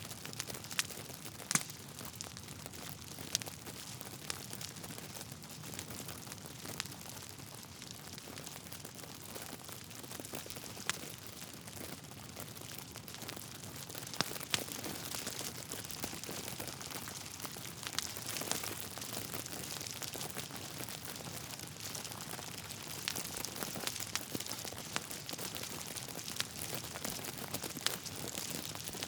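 Wood fire burning in a fireplace: a steady soft hiss with irregular crackles and sharp pops of burning logs, a few louder snaps scattered through.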